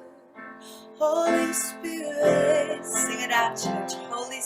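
Slow worship song: keyboard accompaniment with a sung vocal line over it. Quiet for the first second, then fuller from about a second in.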